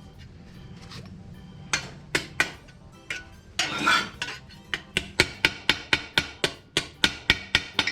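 Light hammer taps on a sheet-steel patch panel being shaped by hand, over background music. A few scattered strikes come first, then a quick, even run of about five taps a second near the end.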